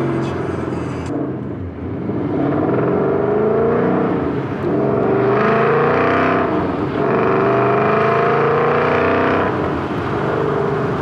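Ford Mustang GT's 5.0 Coyote V8 accelerating, the revs climbing and falling back at each upshift, several times.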